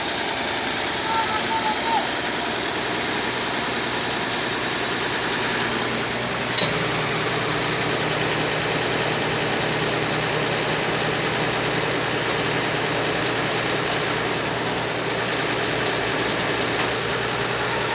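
Steady vehicle engine and road noise, with a single sharp click about six and a half seconds in.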